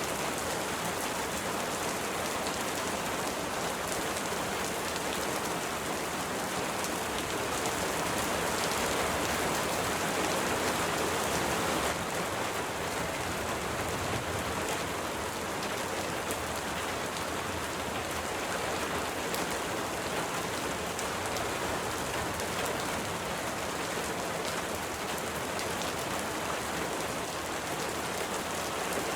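Steady rain falling in an even, unbroken hiss of many drops, swelling slightly for a few seconds about a third of the way in.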